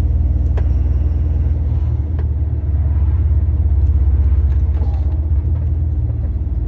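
Lorry's diesel engine and road noise heard from inside the cab while driving: a loud, steady, deep drone with a fast even pulse, with a few faint clicks over it.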